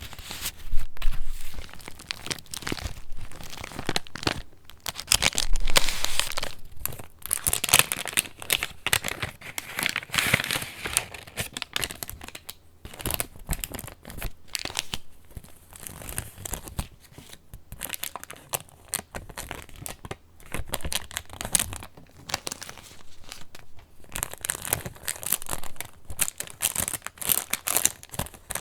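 Pages of a handmade paper junk journal being handled and turned: irregular rustling and crinkling of stiff mixed papers, with many small crackles, busier in a few stretches.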